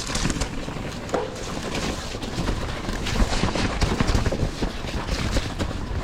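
Mountain bike rolling over a wet, muddy woodland trail: a steady low rumble with a continuous clatter of small knocks and rattles from the bike and tyres on the slippery ground.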